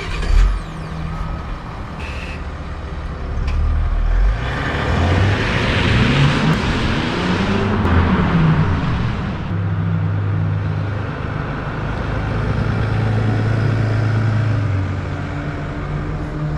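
Mercedes-Benz S350d 4MATIC's diesel engine heard from outside as the car pulls away and drives through a multi-storey car park. There is a low thump just after the start, the engine note rises and falls in the middle with a surge of tyre and exhaust noise, and later it settles to a steady low tone.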